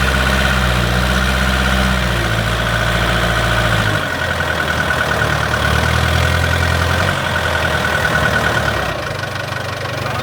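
Excavator's diesel engine running steadily with a high, even whine over it. The engine note shifts about four seconds in, and the sound eases off a little near the end.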